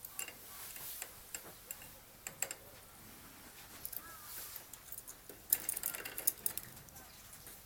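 Pet bird moving about, making irregular light clicks and taps, with a couple of short soft chirps around the middle and a busier patch of clicking about two-thirds of the way in.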